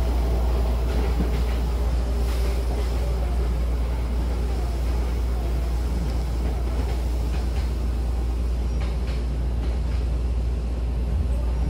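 Inside a Hankyu Kobe Line commuter train running between stations: a steady low rumble of wheels and running gear on the rails, with a few faint knocks.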